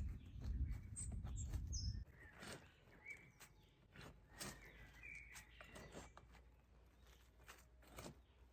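Birds chirping intermittently in a forest, with scattered sharp clicks and rustles. A low rumble stops abruptly about two seconds in.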